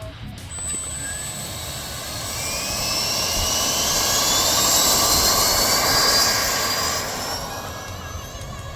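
Freewing F-15 Eagle RC jet's 90 mm electric ducted fans with a rising whine over a rushing air noise. The whine climbs steadily in pitch and grows louder, peaking about five to six seconds in, then fades.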